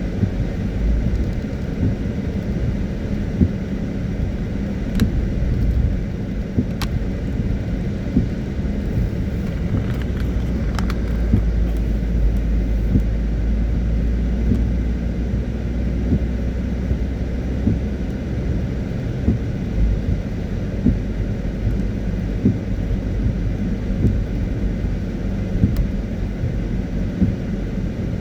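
A car driving on a wet road in the rain: steady low rumble of engine and tyres with an even hiss, and a few sharp ticks.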